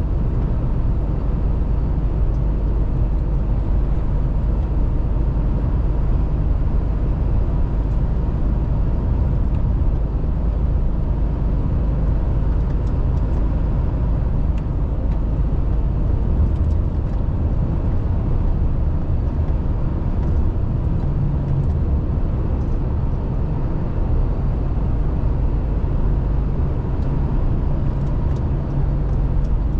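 Mercedes-Benz Actros truck on the move: a steady low engine drone with road and tyre noise, the engine note shifting slightly about two-thirds of the way in.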